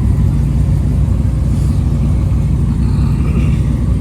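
Car engine running at a steady low pitch, a continuous low drone with no revving.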